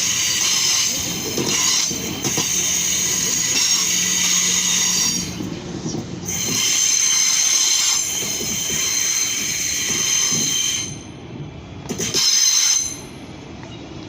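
Train wheels squealing loudly as a train moves along the track, with high, steady squeal tones over a low rumble. The squeal breaks off about eleven seconds in, flares once more briefly, then dies away.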